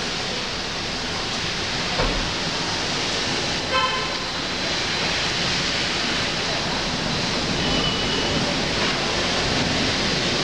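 Steady rain falling on trees and foliage, with a brief vehicle horn toot about four seconds in.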